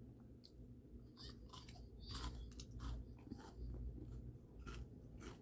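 A person chewing crunchy fried food close to the microphone: faint, irregular crunches and mouth sounds, several a second at times.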